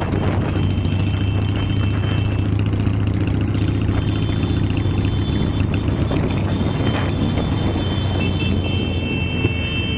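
Harley-Davidson Sportster 883's air-cooled V-twin running steadily at low cruising speed, heard from the handlebars, with the engines of many other motorcycles riding in the group around it. The sound is a steady low engine drone.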